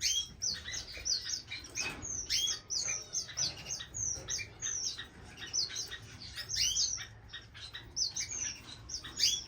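A flock of small estrildid finches chirping: many short, high chirps, each sliding downward in pitch, overlapping almost without a break. The flock mixes orange-cheeked waxbills, strawberry finches and tricolor munias.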